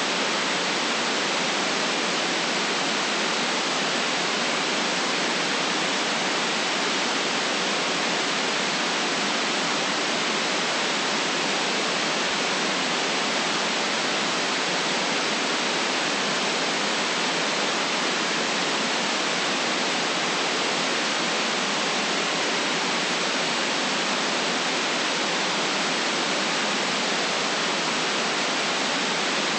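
Steady white-noise hiss, unchanging in level, with the deep bass and the highest treble cut away.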